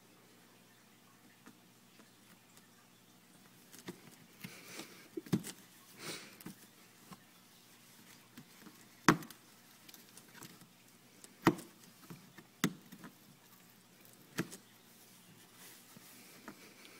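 A cat clawing and tearing at the cardboard top of a box: scratching about four seconds in, then four sharp knocks on the cardboard spread over the next several seconds.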